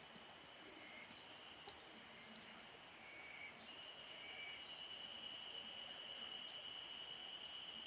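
Faint woodland ambience: a steady high-pitched insect drone that grows stronger about halfway through, a few short chirps, and one sharp click about a second and a half in.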